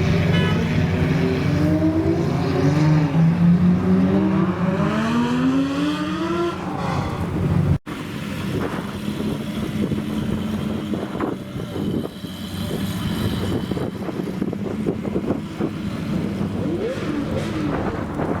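Supercar engine revving, its pitch climbing and falling several times in quick succession. After a sudden cut about eight seconds in, the revs give way to a rougher, noisier car sound with no clear pitch glides.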